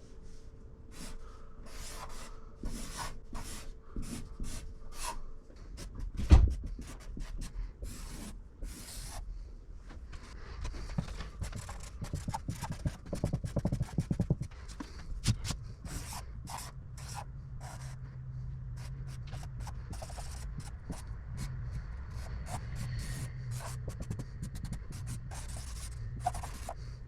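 Hand work on a shower install: a run of short rubbing and scraping strokes, a single heavy thump about six seconds in, and scraping and knocking through the rest. A low steady hum joins in the second half.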